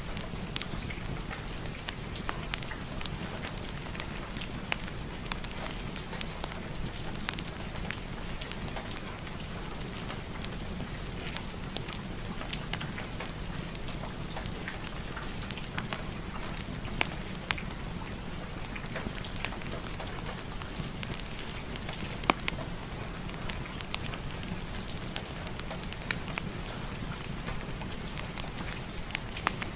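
Steady rain together with a crackling wood fire in a fireplace: a continuous hiss of rain with sharp crackles and pops from the fire scattered irregularly through it.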